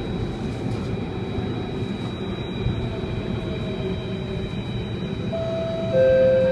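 Cabin rumble of an Alstom Metropolis C830 metro train running on the track. Near the end a steady whine comes in and grows louder as the train approaches the station.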